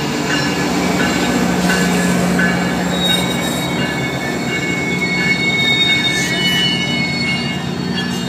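Train pulling into a station, its wheels squealing in several thin, steady high tones over a steady low hum and rumble.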